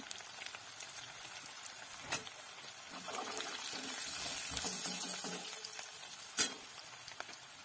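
Sliced onions and dried red chillies sizzling in hot oil in a steel wok while they are stirred with a steel spoon. The sizzle grows louder in the middle, and the spoon knocks sharply against the wok twice, about two seconds in and near the end.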